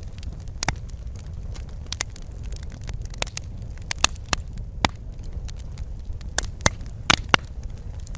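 Wood fire crackling in a fireplace: irregular sharp pops and snaps over a steady low rumble of burning, with a cluster of louder pops in the second half.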